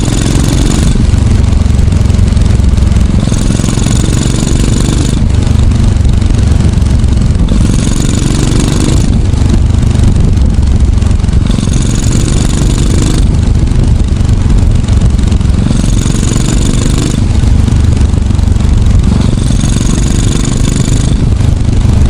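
Yamaha SR400 air-cooled single-cylinder four-stroke engine, swapped into a Super Cub, running steadily under way with a deep pulsing exhaust beat. A higher hiss with a faint whistle comes and goes about every four seconds.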